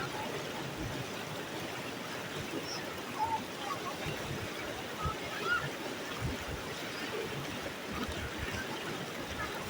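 Steady rushing of a mountain stream and waterfall, with faint distant voices now and then.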